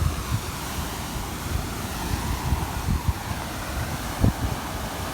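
Water gushing from a fire hydrant hit by a car, a steady rushing hiss. Wind buffets the phone's microphone in low, irregular thumps.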